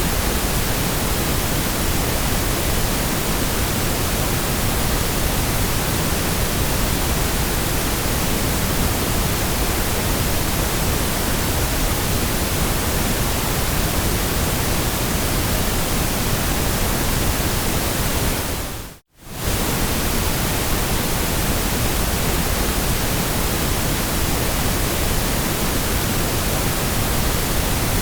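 Steady white noise hiss, even from deep low to very high pitch, with no tones or events in it. About two-thirds of the way through it fades out to silence for a moment and comes straight back.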